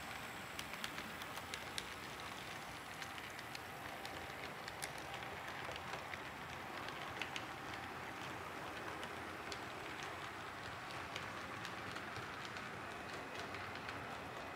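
HO-scale model train running on its track: a steady light rattle of wheels on rails with scattered faint clicks. The locomotive has no sound decoder, so only the mechanical running noise is heard.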